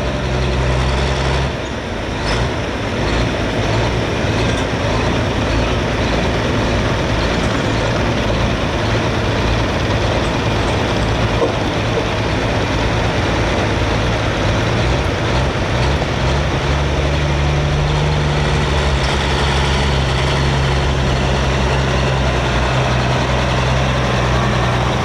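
International Harvester 1066 hot farm tractor's turbocharged six-cylinder diesel running hard under load while pulling the sled. Its pitch shifts about a second and a half in and again around sixteen seconds in.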